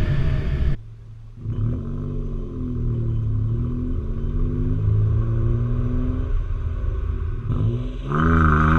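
Three-cylinder car engine running with its pitch gently rising and falling under light revs. It breaks off abruptly under a second in, comes back about a second later, and gets louder near the end as it is revved.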